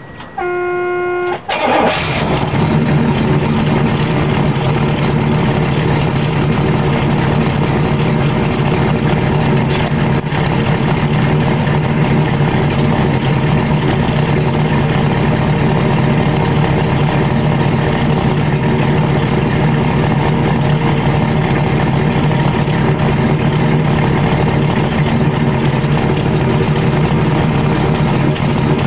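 1972 Oldsmobile Cutlass Supreme's Rocket 350 V8, with a two-barrel carburettor and factory single exhaust, starting after a brief steady whine and catching about two seconds in. It then idles steadily. The owner says the car has sat for years and its dirty carburettor has it running a little rich.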